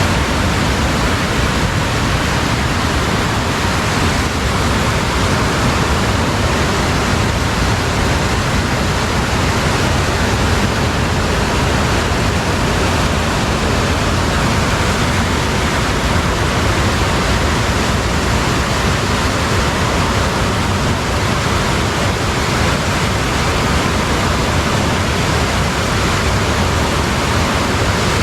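Steady rush of flowing water, an even, unbroken noise with no change in level.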